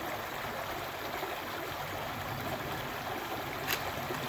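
River water flowing steadily, with one sharp click a little before the end.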